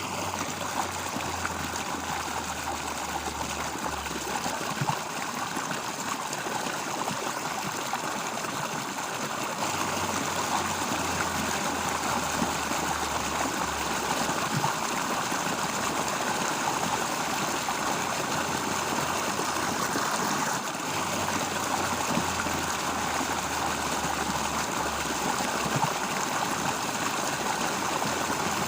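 Steady rush of a flowing stream, with a low hum underneath that comes and goes every few seconds.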